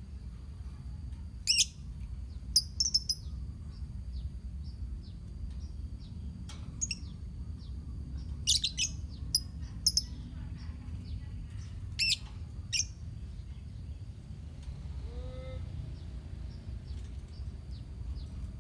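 A colony of lovebirds calling: sharp, shrill high-pitched chirps in short clusters with quieter rapid chattering in between, over a steady low hum.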